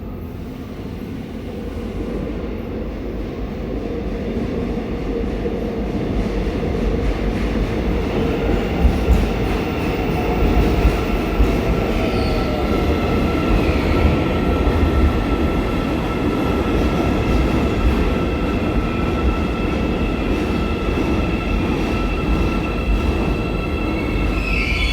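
Seoul Subway Line 4 electric train running at the station, its wheels and traction motors rumbling and growing louder over the first eight seconds or so, with steady high whining tones over the rumble. A high wheel squeal starts near the end.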